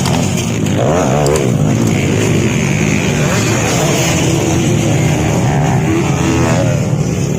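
Several motocross bike engines running and revving together, their pitches rising and falling as the riders work the throttles.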